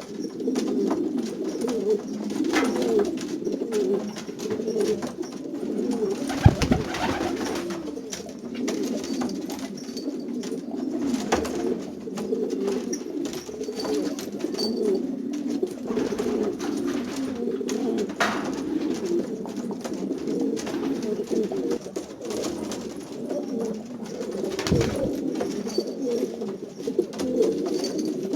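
A flock of domestic pigeons cooing together, many low calls overlapping into a continuous murmur, with a sharp knock about six seconds in and another near the end.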